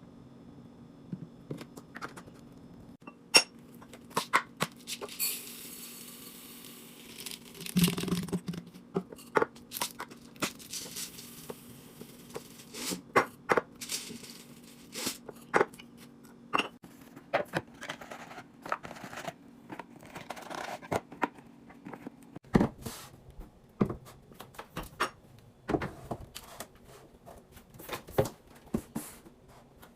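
Plastic packaging being torn open and crinkled, with many scattered light knocks and clicks of items being handled and set down.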